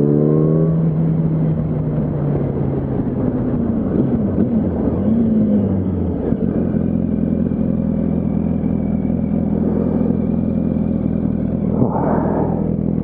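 Yamaha R1 sport bike's inline-four engine rising in pitch in the first second, then running steadily at low speed in city traffic. About six seconds in it settles into a steady, even note, with a short rush of noise near the end.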